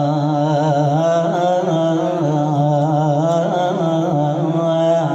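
A male munshid singing an Arabic nasheed in a maqam, holding long melismatic notes that waver in small ornamented turns.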